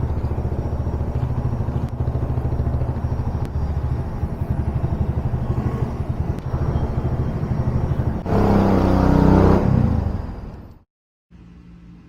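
Kawasaki W175's single-cylinder engine, breathing through a 30 mm flat-slide carburetor, running steadily, then revved louder about eight seconds in before dying away. Near the end the sound cuts off, leaving a faint steady hum.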